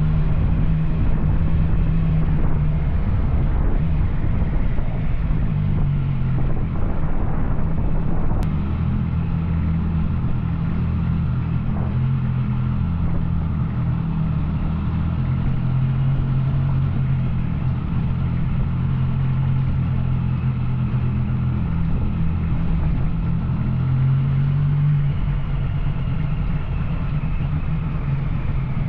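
Yamaha Tracer 900's three-cylinder engine running through an Arrow exhaust, cruising at a fairly steady throttle. It is a little louder for the first several seconds, then settles to an even drone.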